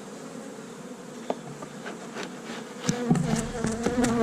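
Honey bees buzzing steadily around an opened hive. From about three seconds in, a louder, wavering buzz comes in close, with a few knocks.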